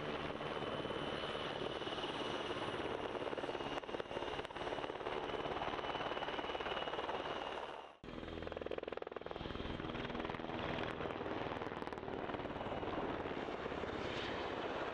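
PZL W-3A Sokół twin-turbine helicopter in flight: continuous rapid rotor-blade chop with a high turbine whine. The sound drops out for an instant about halfway through and picks straight up again.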